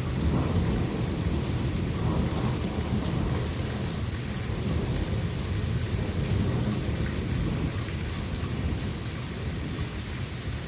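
Thunderstorm: steady rain with a continuous low rumble of thunder.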